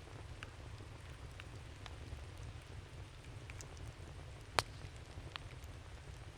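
Wood campfire crackling, with scattered sharp pops and one louder pop about four and a half seconds in, over a steady low rumble.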